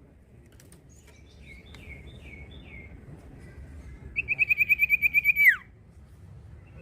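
Common iora (cipoh) singing: a few short down-slurred whistles, then a loud, rapid trill held on one pitch that ends in a long falling note.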